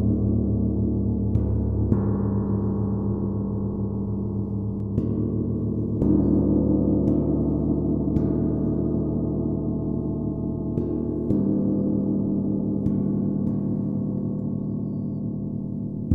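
A gong played with soft mallet strokes every one to three seconds, its low, dense ringing sustaining continuously between strokes.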